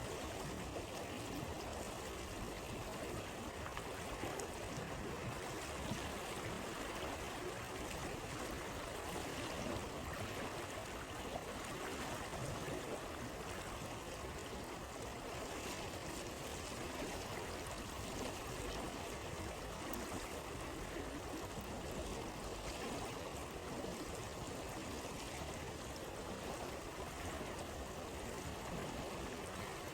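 River stream running steadily in an even rush of water. A few faint scattered crackles from a campfire come through it.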